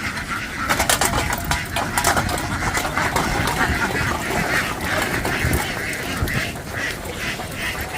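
A large flock of domestic ducks quacking together in a dense, continuous din, with a run of sharp clatters in the first few seconds.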